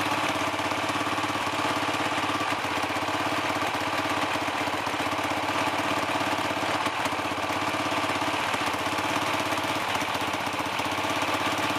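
Single-cylinder dirt bike engine idling steadily while warming up.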